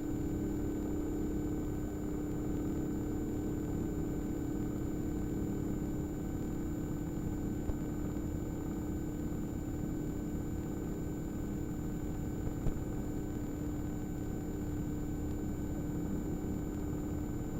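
Tour helicopter in flight: a steady cabin drone with a constant hum and a few thin steady tones above it.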